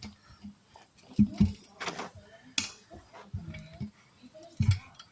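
Tire being worked off its rim: a series of sharp knocks and metallic clinks of tire tools against the wheel, some with a low thump, about five in all.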